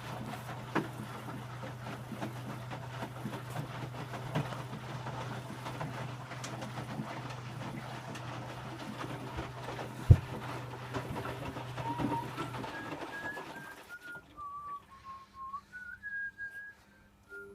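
Electrolux W455H commercial washing machine during its wash: the drum turns with a sloshing, clicking wash sound over a steady low motor hum, with one sharp knock about ten seconds in. The hum cuts out at about 13 seconds and the drum goes quiet soon after, and a person whistles a short tune over the pause.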